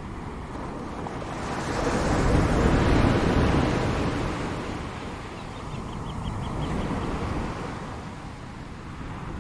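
Ocean surf: a wave swells and breaks, loudest about three seconds in, then washes back, with a smaller swell about seven seconds in.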